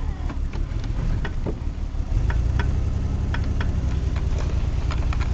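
A low, steady, engine-like hum that grows louder about two seconds in, with scattered sharp clicks over it.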